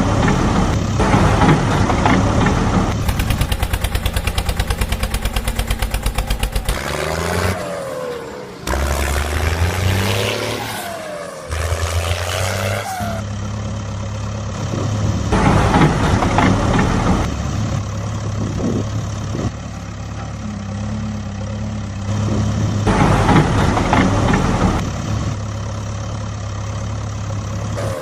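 Heavy vehicle engines running and revving. A few seconds in there is a fast, even clatter, and around the middle the pitch rises and falls.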